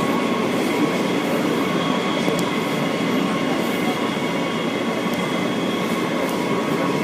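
New York City subway train running: a loud, steady rumble with a sustained high-pitched wheel squeal held over it.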